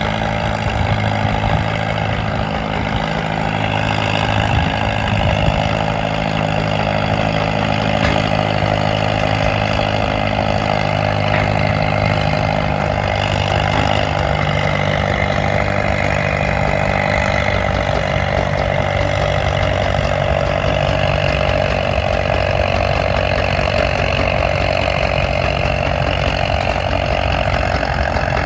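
Farmall M tractor engine running steadily at a constant speed, with no sharp changes in pitch or loudness.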